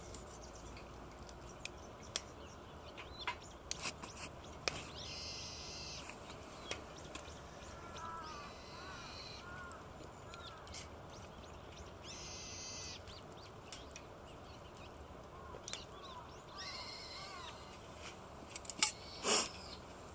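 Birds calling: four harsh, drawn-out calls a few seconds apart, with smaller chirping calls in between. Scattered sharp clicks run throughout, and a loud knock with a short rushing sound comes near the end.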